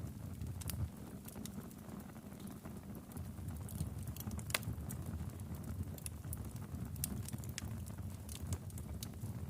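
Wood fire crackling in a fireplace: irregular sharp pops and snaps, the strongest about four and a half seconds in, over a low steady rumble.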